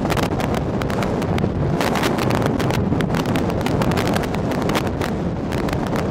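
Strong storm wind blowing across the microphone: a steady rushing noise broken by frequent irregular sharp crackles and taps.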